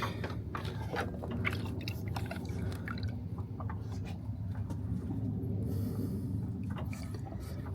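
Diesel fuel dripping and trickling off a fuel sending unit lifted from a truck's fuel tank, with scattered small clicks and knocks of handling, most of them in the first half, over a steady low hum.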